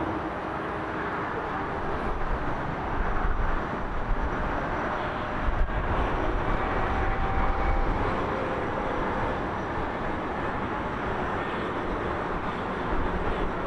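Jet airliner engine noise: a steady rushing noise with a little faint whine in it.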